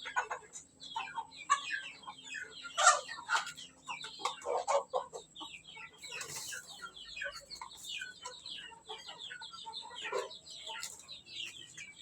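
A flock of ayam kampung (Indonesian free-range native chickens) clucking busily, with many short calls overlapping throughout, and a brief rustle about six seconds in.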